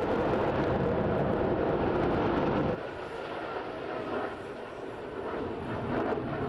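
Jet engine noise of fighter aircraft flying a display: a loud, steady rumble that cuts off abruptly about three seconds in, leaving a much quieter background of more distant jet sound.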